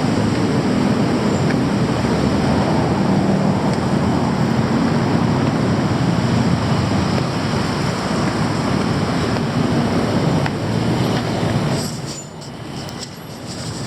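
Loud, steady rumble of a passing vehicle, dropping away about twelve seconds in.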